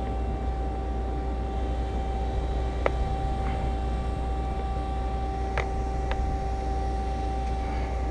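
Steady mechanical hum with a constant tone. Light sharp clicks come about three, five and a half, and six seconds in.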